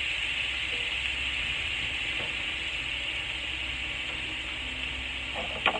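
Chopped onions sizzling in melted butter in a frying pan: a steady hiss. A short click comes near the end.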